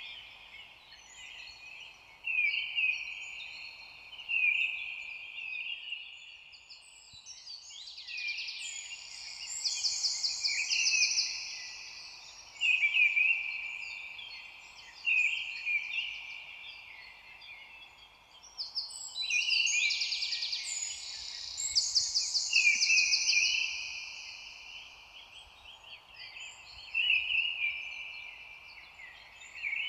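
Several songbirds singing at once, with overlapping chirps and rapid trills that swell to louder bursts of song about a third and two thirds of the way through, over a faint steady background hiss.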